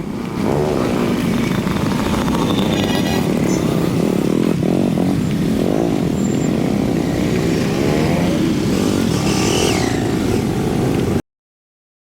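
A group of motorcycles riding on the road, several engines running loud at once with their notes rising and falling. The sound cuts off suddenly near the end.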